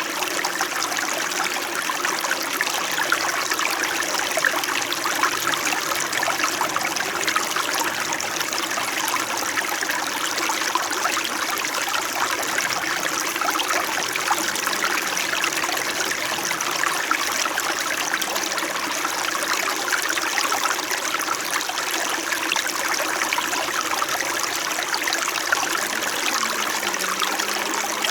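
A small mountain stream in winter flowing steadily over stones, with a continuous babble and trickle of water.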